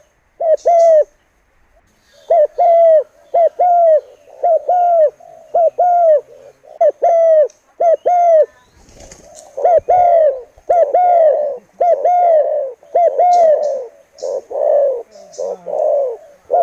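Spotted dove (tekukur) cooing: a long run of short, down-curving coos, about two a second, with a brief pause about a second in.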